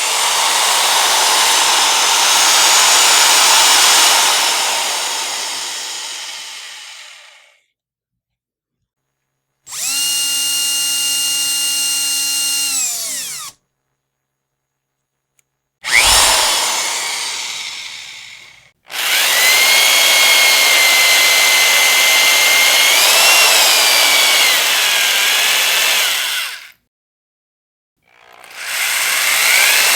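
Electric power drill run in five separate bursts of a few seconds each, with short silent gaps between them. One run is a clean, steady whine that stops abruptly. Others start sharply and fade away as the motor spins down, and in the longest run the pitch wavers briefly near its end.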